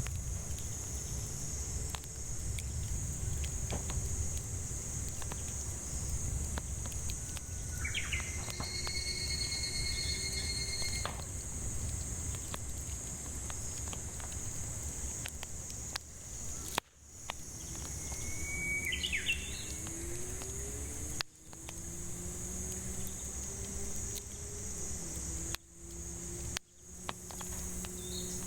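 Cicadas droning steadily at a high pitch, with a bird calling in short whistled notes twice, about eight seconds in and again near twenty seconds. Under them run the low rumble and faint crackles of a wood fire.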